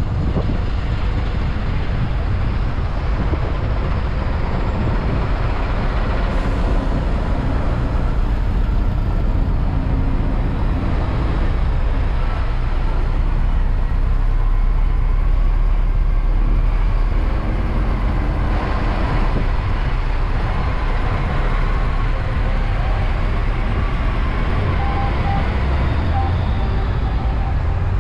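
Steady road traffic noise from vehicles passing, a continuous low-heavy wash of engine and tyre noise that swells a little about halfway through.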